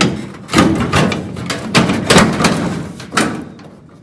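Sheet-metal replacement cross-member panel on a VW Beetle body scraping and clattering against the surrounding panels in a run of short, rough strokes as it is pushed into place, tailing off near the end.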